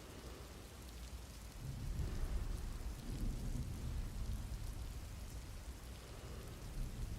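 Steady rain, with a low rumble of thunder that swells about a second and a half in and rolls on more softly.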